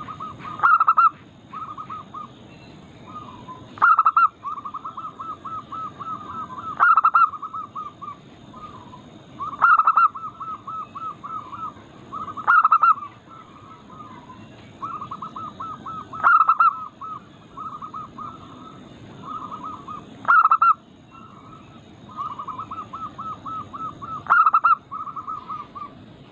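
Zebra doves (perkutut) cooing: runs of short, rapid, stuttering notes, with a louder call breaking in about every three to four seconds.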